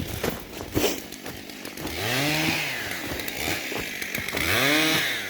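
A couple of sharp knocks, then a gas chainsaw is revved twice, its engine note rising and falling back each time.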